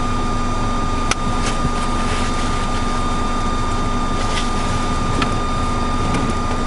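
A stranded car idling with its heater fan running: a steady, even hum without change. A single sharp click about a second in.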